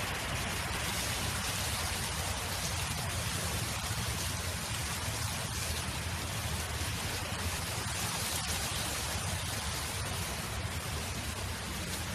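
Steady wind noise: a constant hiss with a low rumble underneath, holding level throughout.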